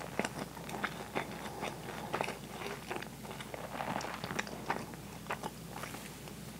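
Close-miked chewing of a mouthful of soft food: a quick, irregular run of wet mouth clicks and smacks.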